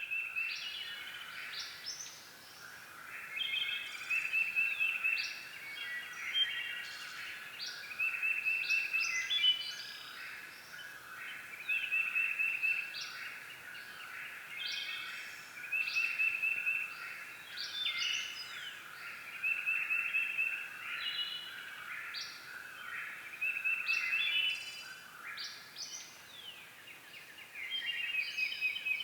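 Several birds singing and calling together, one of them repeating a fast trilled phrase about every four seconds over a steady background of other chirps.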